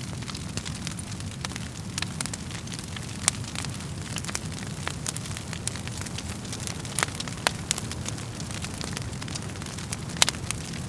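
Wood fire burning in a fireplace: a steady low rumble of flames with irregular sharp crackles and pops from the burning logs, two of them standing out louder, about three seconds in and near the end.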